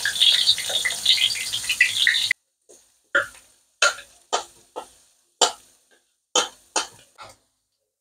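Spice paste hissing and sizzling in a hot wok as oil is poured in from a glass cup. It cuts off suddenly about two seconds in, and about ten short clicks and scrapes follow as the cup is scraped out with a spoon.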